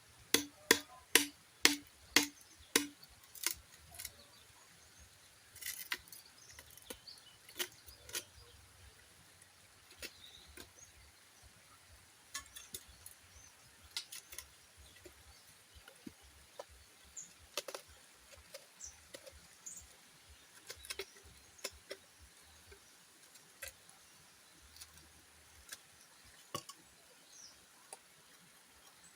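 Bamboo being struck with a blade: rapid hollow knocks, about three a second, for the first few seconds. After that come scattered lighter knocks and clicks.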